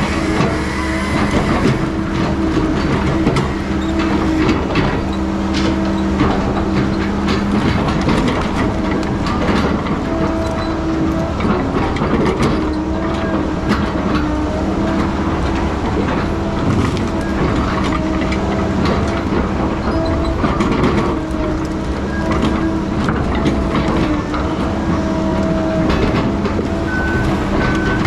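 Heavy diesel logging machine running steadily under load, its engine drone overlaid with constant metallic rattling and clanking.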